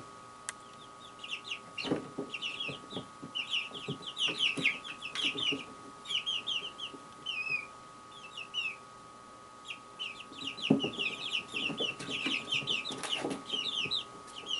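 Small songbirds chirping at a feeder, with rapid overlapping runs of high chirps and a short lull about eight seconds in. A faint steady high hum sits underneath.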